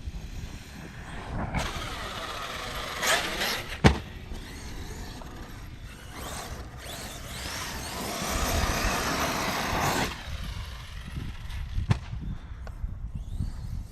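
Arrma Kraton 6S RC truck's brushless motor (Hobbystar 4092, 1730kv) whining up and down in pitch as the truck accelerates and runs past, with a hiss of tyres and drivetrain. There is a sharp knock just before four seconds in and a smaller one near twelve seconds.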